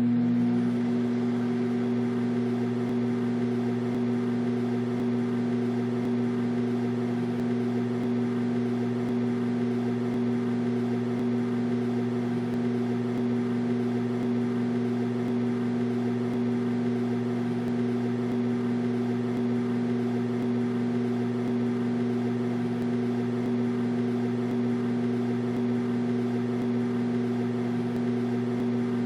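Microwave oven running: a steady, unbroken low electrical hum.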